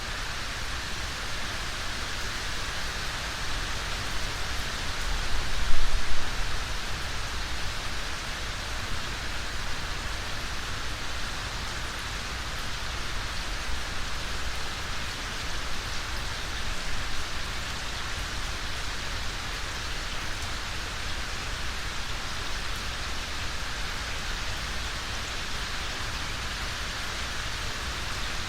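Steady rainfall, an even hiss of drops on surfaces. About six seconds in it swells briefly with a low rumble.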